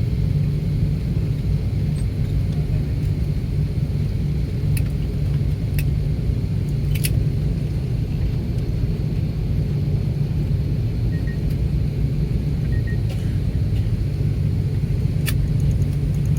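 Steady low rumble in the cabin of an Airbus A330-300 rolling on the ground after landing. A few brief clicks sound through it.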